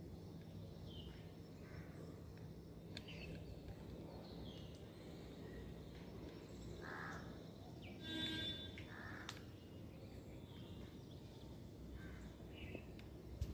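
Faint outdoor background with short bird calls here and there, one a little louder about eight seconds in.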